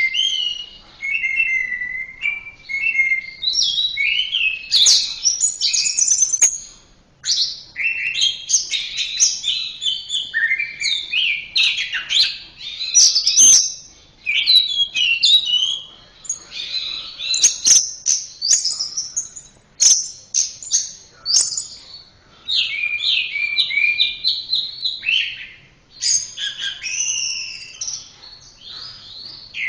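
Orange-headed thrush (anis merah) singing a long, varied song of quick high whistles and chattering phrases. It breaks off briefly a few times between runs of phrases.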